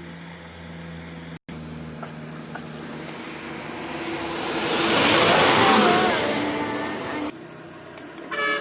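A heavily loaded truck passing close on an uphill climb: its engine and road noise swell to a loud peak about five seconds in, then cut off abruptly near the end. There is a brief gap in the sound about a second and a half in.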